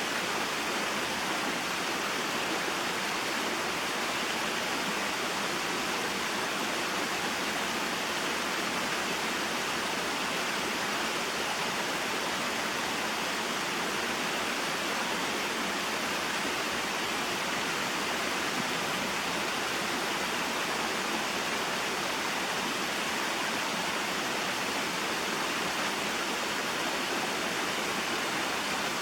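Small waterfall and mountain stream: water rushing and splashing in a steady, unbroken hiss.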